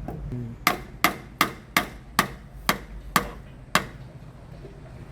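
A series of about eight sharp hammer strikes at roughly even intervals over three seconds, each with a short ring, during work on a van's rear differential cover.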